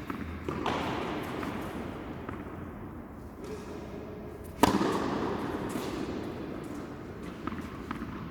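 Tennis ball struck by a racket, echoing in a large indoor hall: a softer hit near the start, a sharp, loud hit about halfway through, and a few faint taps after.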